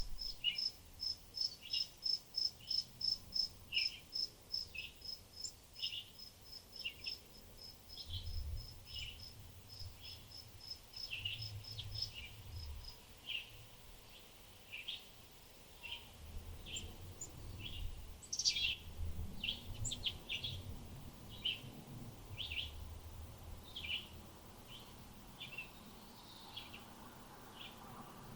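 Birds calling with short chirps about once a second, over a fast, even series of high-pitched pulses, about four a second, that stops around the middle. Low rumbles come and go underneath.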